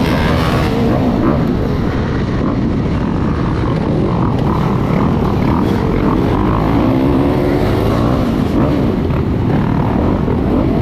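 Dirt bike engines running loudly, their revs rising and falling.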